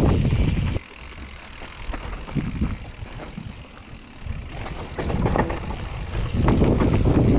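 Mountain bike descending a downhill trail: wind rushing on the GoPro microphone with tyre noise and the rattle of chain and frame over rough ground. The rush drops away sharply about a second in, leaving a few quieter seconds of clicking and rattling, then swells back to a loud rush near the end.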